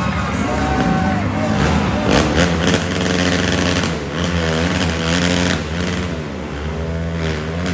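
Monster truck engine running loud and revving up and down several times.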